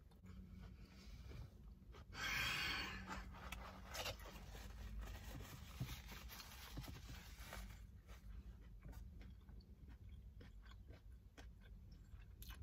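Faint chewing and mouth sounds of someone eating a turkey burger close to the microphone, with a brief louder noisy sound about two seconds in and small clicks after.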